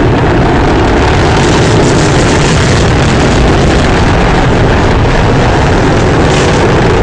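Loud, steady roaring noise with no distinct bang, even in level throughout.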